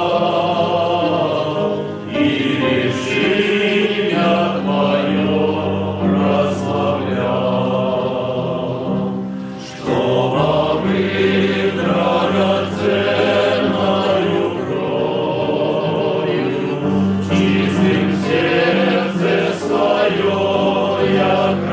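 Choir singing in long held chords, with short breaks between phrases.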